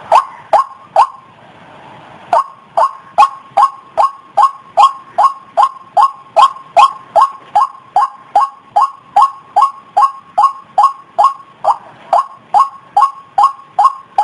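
White-breasted waterhen calling: a long run of short, loud, repeated calls at about two and a half a second, broken by a pause of about a second near the start.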